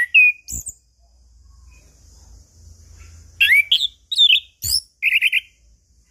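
Chestnut-capped thrush (anis kembang) singing in short bursts of clear, varied whistled notes. It opens with a sliding note, falls silent, then gives a cluster of quick notes a little after three seconds and ends on a rapid trill of about five notes.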